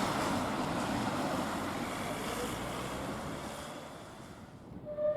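Steam train running past, its rushing rail noise fading away over about four seconds as it recedes. A steam whistle starts to sound right at the very end.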